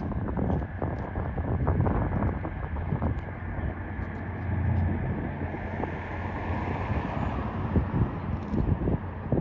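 Wind buffeting the microphone over the low rumble of road traffic, with a vehicle passing about halfway through.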